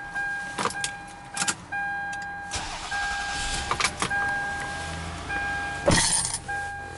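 A 2000 Toyota Avalon's 3.0-litre V6 being cranked and starting about two and a half seconds in, then idling with a low rumble. The car's warning chime keeps sounding with short breaks throughout, with a few sharp clicks early on and a loud thump near the end.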